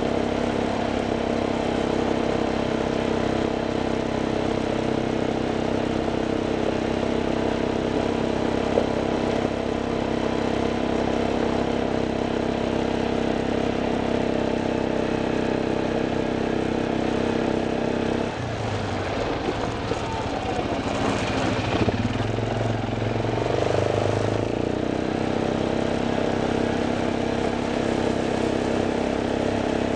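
Vehicle engine running steadily under load on a hill climb. About two-thirds of the way through, the engine note drops lower for several seconds, then comes back up to its earlier steady pitch.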